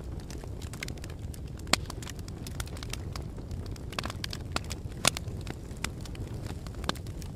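Fire crackling: a steady low roar of flames with scattered sharp pops and snaps, the loudest about two seconds in and about five seconds in.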